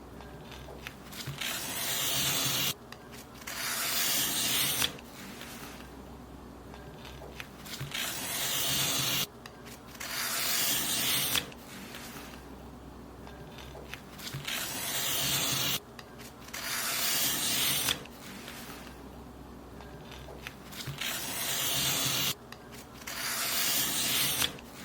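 Paper being cut: repeated long slicing strokes, each about two seconds of rising hiss that stops abruptly, coming in pairs every six seconds or so.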